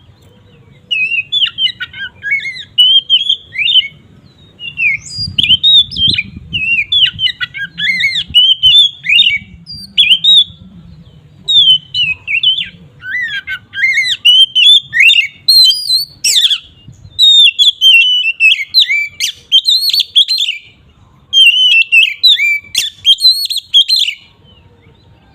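Oriental magpie-robin (kacer) singing a long, continuous run of rapid, varied whistled and chattering phrases, broken by a few short pauses.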